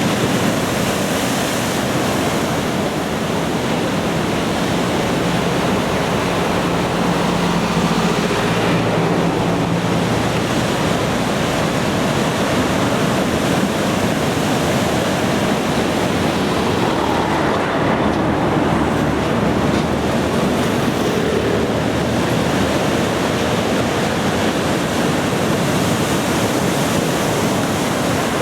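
Ocean surf from a typhoon swell breaking and washing onto the beach: a steady, unbroken rush of waves.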